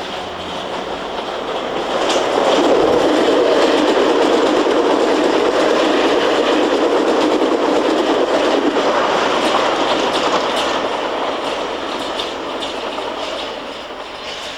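A train running past on the track, swelling about two seconds in, holding steady, then fading in the last few seconds, with the wheels clattering over the rails.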